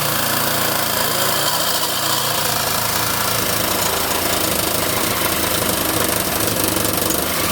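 Power saw cutting steadily through a steel car exhaust pipe, a loud continuous rattling buzz as the blade works through the metal.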